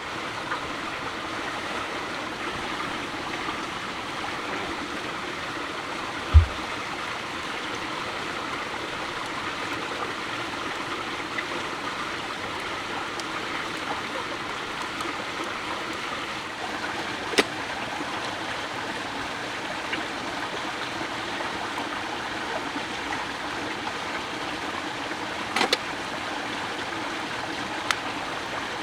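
Steady rushing of running water, with a few sharp clicks scattered through it and one brief low thump about six seconds in.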